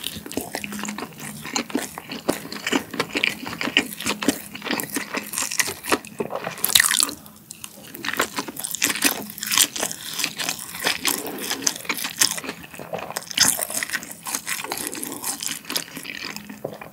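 Close-miked chewing of a spicy Korean steamed dumpling (mandu): a dense run of quick mouth smacks and clicks, with a short lull about seven and a half seconds in.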